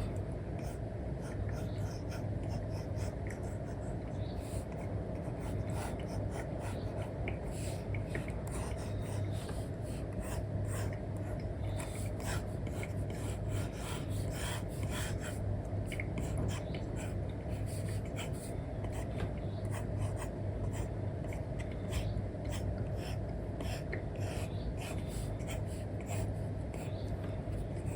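Stylus drawing on a paper-like screen protector: an Apple Pencil 2 with an Elecom nib scratching and tapping across the iPad's matte film in quick, irregular strokes, over a steady low hum.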